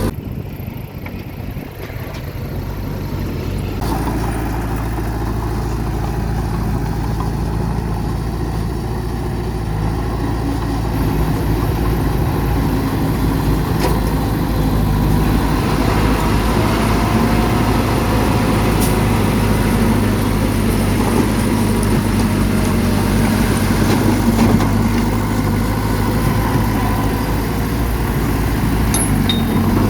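Heavy diesel engine of earthmoving machinery running steadily at a low, even pitch, dipping briefly near the start and rising again over the next few seconds.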